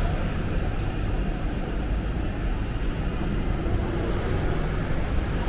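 Wind buffeting the microphone: a steady low rumble with no separate events.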